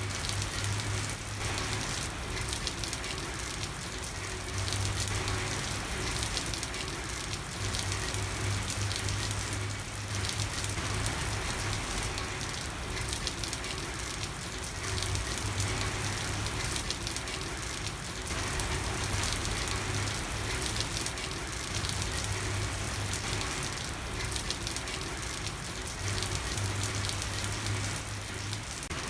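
Steady rain falling, an even hiss, with a low hum underneath that comes and goes every few seconds.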